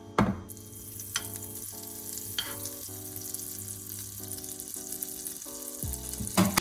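Food frying in a hot pan: a steady sizzle that starts about half a second in and cuts off abruptly at the end, with a few sharp knocks of utensils against the pan. Soft background music plays throughout.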